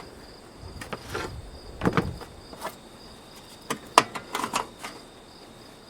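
Scattered clicks, knocks and rustles of an opened metal ammunition spam can and its paper-wrapped cartridge packs being handled, over a steady high chirping of crickets.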